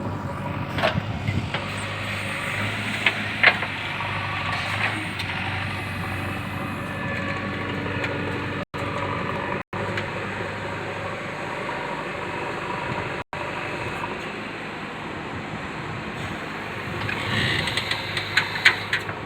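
JCB 3DX backhoe loader's diesel engine running steadily while it works in mud, with occasional sharp knocks.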